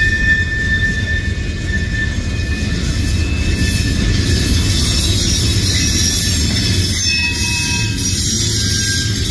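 Freight cars of a manifest train rolling past, a steady heavy rumble of steel wheels on rail. A high steady squeal from the wheels fades out about two seconds in.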